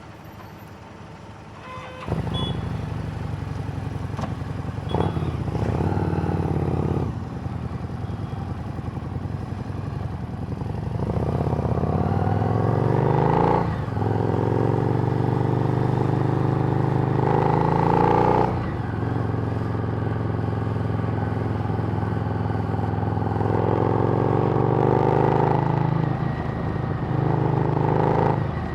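Harley-Davidson Street Rod's 750 cc V-twin through a Screamin' Eagle exhaust, cutting in suddenly about two seconds in and then running steadily. Three times it rises in pitch under throttle, and each rise ends in a sudden drop.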